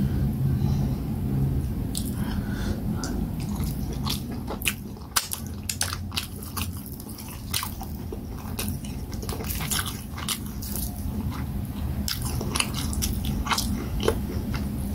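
Close-miked chewing of fufu and peanut soup eaten by hand: irregular wet mouth clicks and smacks, with the soft squish of fingers working the fufu and soup, over a low steady hum.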